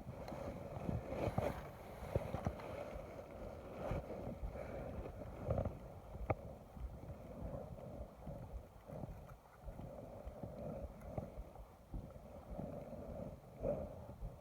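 Wind and water noise around a small fishing boat, with scattered light knocks and one sharp click about six seconds in.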